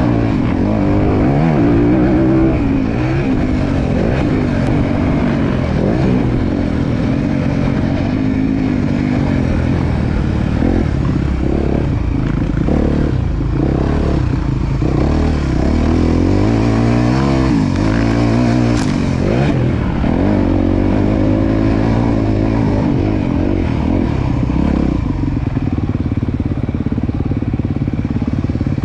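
Honda CRF250R single-cylinder four-stroke motocross bike engine being ridden, its revs rising and falling again and again as the rider works the throttle through corners.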